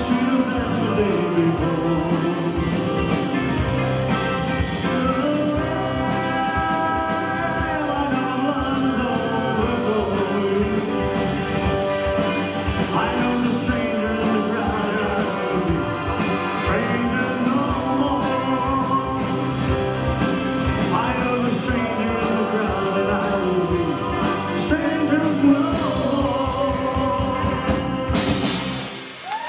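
Live rock-and-roll band with singing, playing the closing section of a song; the music stops about a second before the end.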